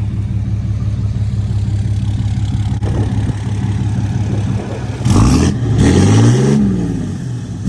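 Tow truck's diesel engine with a smoke tune idling steadily, then revved hard about five seconds in, the pitch climbing and falling back as it settles.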